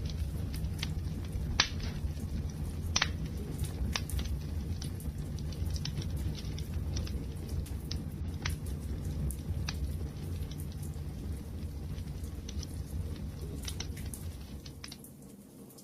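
Wood fire crackling: irregular sharp pops and snaps over a steady low rumble of burning. The sound fades down near the end.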